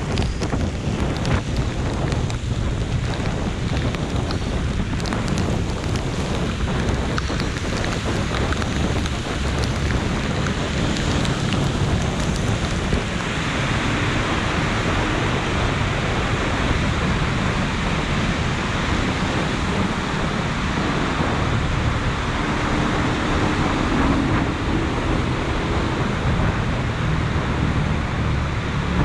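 Steady heavy rain, with wind buffeting the microphone; the hiss of the rain grows stronger about halfway through.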